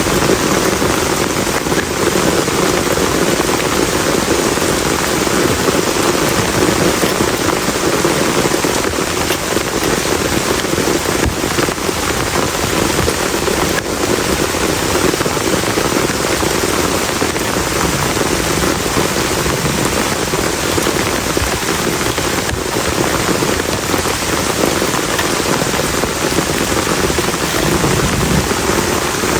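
Heavy rain falling steadily: a dense, even hiss of downpour with a few sharper drop hits now and then.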